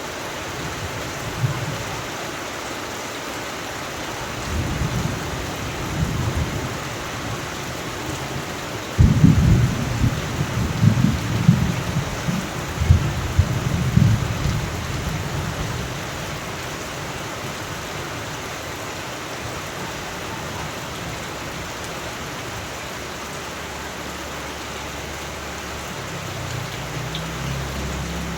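Steady rain falling with thunder: a soft rumble a few seconds in, then a sudden loud clap about nine seconds in that rolls and rumbles for several seconds before fading back under the rain.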